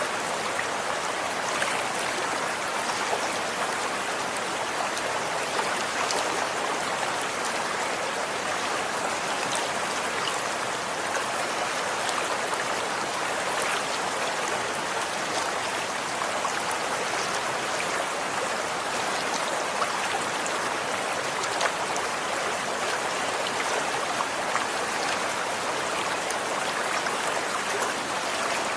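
Running water from a stream, a steady splashing rush with small droplet splashes scattered through it.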